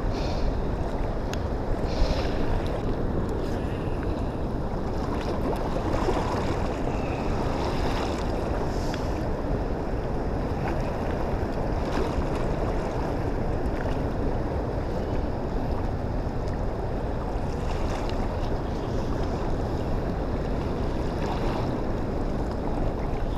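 Steady wind on the microphone over the rush of water, with a few faint ticks.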